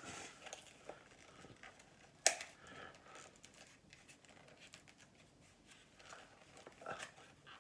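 Hockey card pack wrapper being crinkled and torn open by hand, with a single sharp snap about two seconds in as the loudest moment and more rustling near the end.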